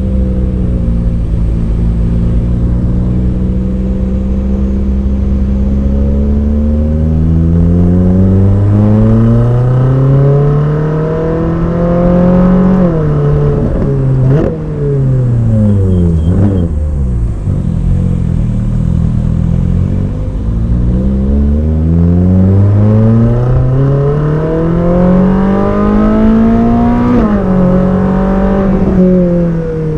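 Ferrari 458 Speciale's naturally aspirated 4.5-litre V8 under way: the revs climb, drop abruptly at a gear change about halfway through with a couple of sharp cracks, fall away, then climb again to another sharp shift near the end.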